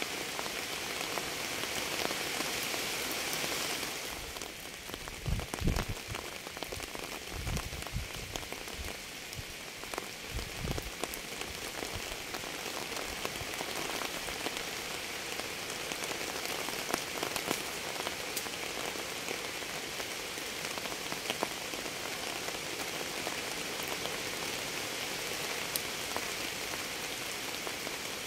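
Steady rain falling, with single drops ticking close by. A few low thuds come between about five and eleven seconds in.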